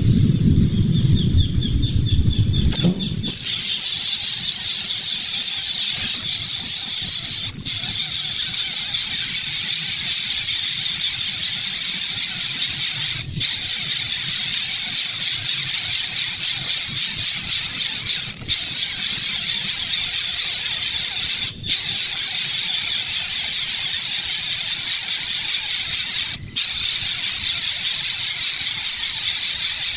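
Nestling birds begging: a continuous, dense, shrill high-pitched chirping, with a low rumble during the first three seconds.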